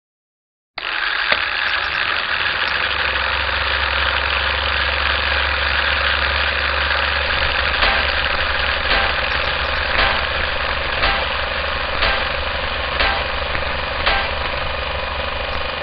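An engine idling steadily, starting abruptly about a second in, with a light knock about once a second in the second half.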